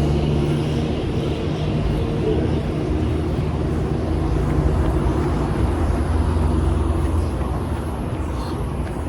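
Steady road-traffic noise with a continuous low engine drone.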